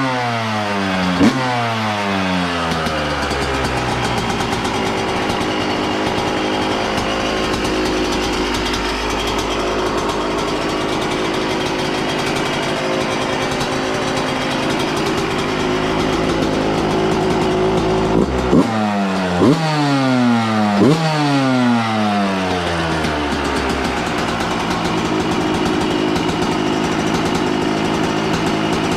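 2013 Yamaha YZ125's two-stroke single-cylinder engine idling, its freshly repaired carburetor no longer leaking. The throttle is blipped once near the start and three times in quick succession about two-thirds through, each rev dropping back to idle.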